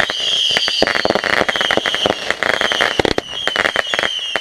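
Consumer fireworks going off: a rapid, irregular run of bangs and crackles mixed with repeated high whistles that fall slightly in pitch.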